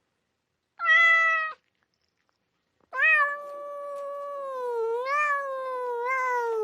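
Domestic cat meowing twice: a short meow, then after a pause a long, drawn-out meow that wavers in pitch and drops away at the end.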